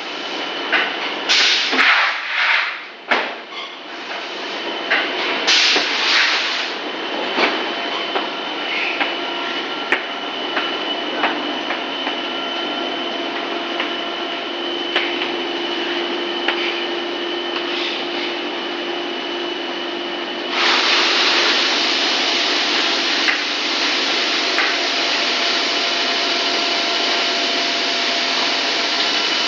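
Extruder machine running with a steady mechanical whine and hum. Irregular knocks and clatter come through in the first several seconds, and about two-thirds of the way in a louder hiss sets in suddenly and holds.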